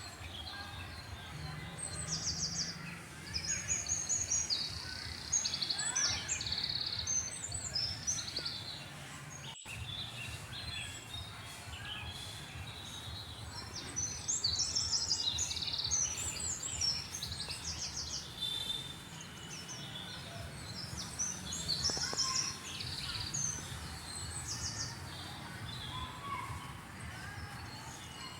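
A chorus of small birds chirping and trilling, many short repeated calls overlapping, over a low steady background rumble. The sound drops out for an instant about a third of the way through.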